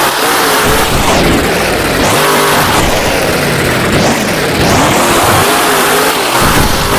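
Grave Digger monster truck's supercharged V8 engine revving hard, its pitch climbing and dropping several times as the throttle is worked.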